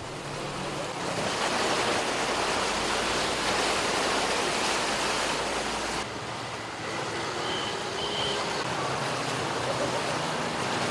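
Steady rushing, splashing noise of water on a flooded street, with an abrupt change in its character about six seconds in.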